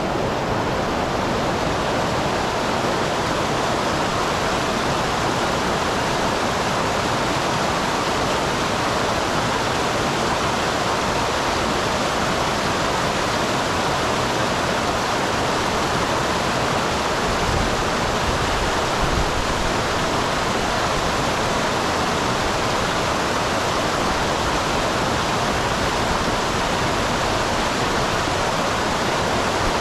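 Small waterfall on a mountain stream: water falling and rushing in a steady, even roar.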